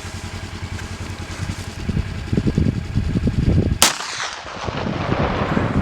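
A single handgun shot fired about two-thirds of the way in, sharp and loud, with a trailing echo that dies away over about a second. Low wind buffeting on the microphone comes before it.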